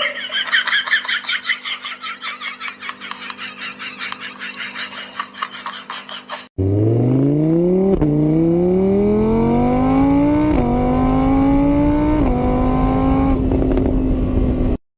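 A car engine accelerating hard through the gears, its pitch climbing and then dropping back at each of about four gear changes before cutting off near the end. For the first six seconds before it comes a different, rapidly pulsing sound over a steady hum.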